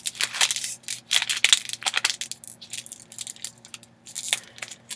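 Plastic candy packaging crinkling and crackling in irregular bursts as it is squeezed and pulled at to get it open.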